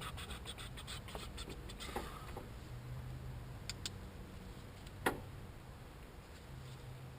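Light clicks and taps, a quick run of them in the first two seconds, two more ticks near four seconds in, and one sharper knock a little after five seconds, over a low steady hum.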